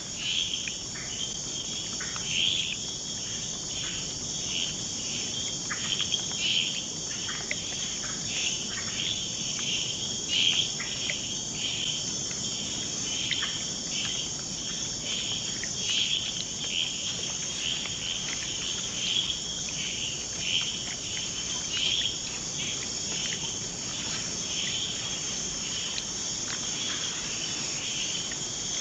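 Rainforest night chorus: a steady, high-pitched drone of insects, with many short chirps scattered through it at a rate of one or two a second.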